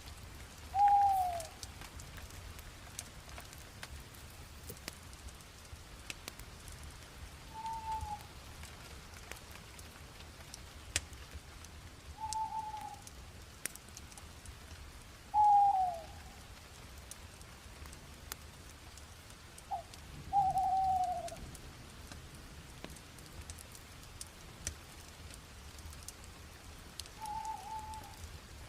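Wood fire crackling with scattered small pops over a low steady rush. A bird gives a short, falling call six times at intervals of a few seconds, louder than the fire.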